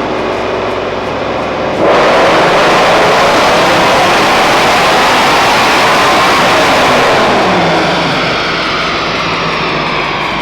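A 2018 Ford Mustang GT's naturally aspirated 5.0-litre V8, with a cat-back sport exhaust and cold-air intake, running on a chassis dynamometer. It goes to full throttle about two seconds in, very loud, and its pitch falls as it comes off the pull near the end.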